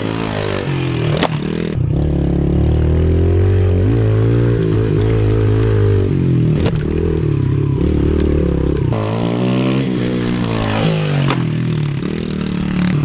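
A small four-stroke pit bike engine revving hard and easing off again and again as the rider works the throttle around a dirt track, with three sharp knocks along the way.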